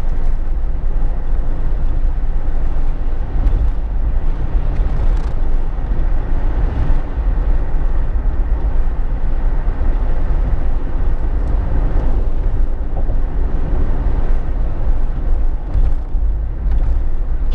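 Steady road and engine rumble heard inside the cabin of a Jeep Wrangler JK being driven, with the noise heaviest in the low bass.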